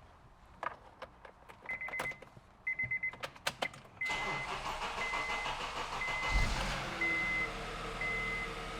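2009 Honda Accord being started: clicks, then quick bursts of dashboard beeps. A warning chime then sounds about once a second while the engine cranks and catches about six seconds in, then runs.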